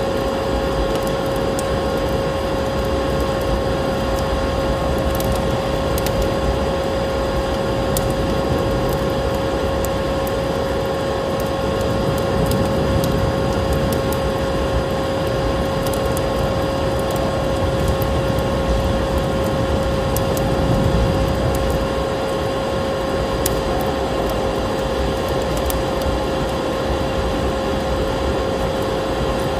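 Vacuum cleaner running steadily with a constant motor whine, layered over the crackle of a wood fire in a fireplace and a low rush of snowstorm wind; the sharp crackles pop at irregular moments.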